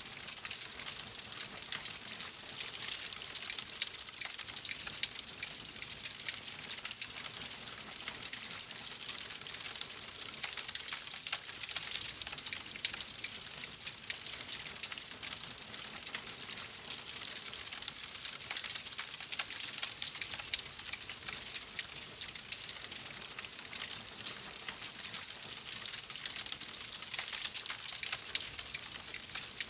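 Wood fire crackling in a fireplace: a steady hiss with many small pops and snaps scattered throughout.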